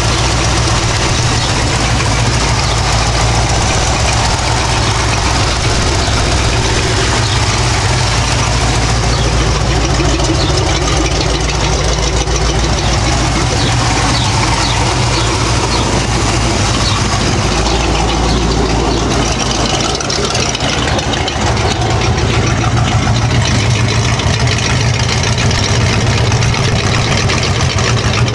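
A 1995 Mustang GT's 5.0-litre V8 idles steadily through a Borla exhaust and BBK headers while it warms up after a cold start.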